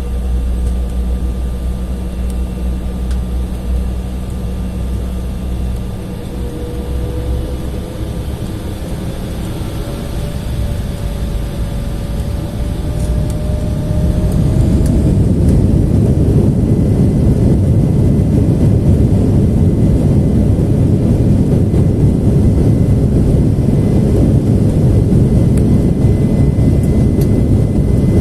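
Embraer E175 jet engines heard from inside the cabin, spooling up for takeoff with a whine that rises in pitch. About fourteen seconds in, the sound jumps into a loud, steady rumble as the aircraft accelerates down the runway on its takeoff roll.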